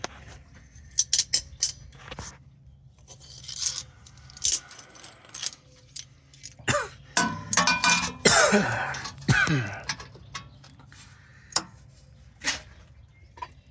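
Metal hand tools clinking, scraping and rattling in a string of irregular sharp knocks, with a stretch of muffled voice near the middle.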